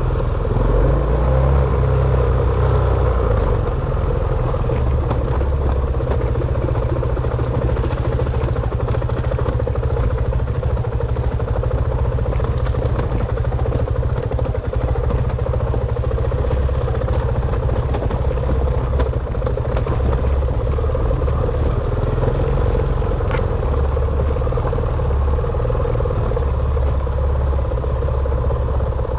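Dirt bike engine running steadily under way, with a heavy low rumble throughout.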